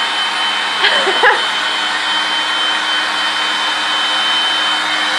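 Electric air-mattress pump running steadily, blowing air with a steady high whine, used as a hair dryer. A short voice sound comes about a second in.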